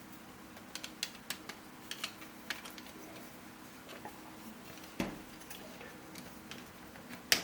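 3D-printed plastic puzzle pieces clicking and knocking as they are handled and fitted together: a quick run of small clicks, a duller knock about five seconds in, and one sharp, louder snap near the end.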